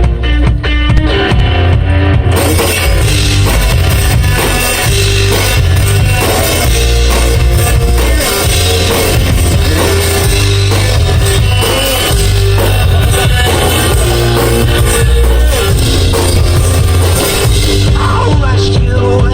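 One-man band playing loud rock music: a drum beat worked with foot pedals under strummed guitar and a bass line. The full sound comes in about two seconds in.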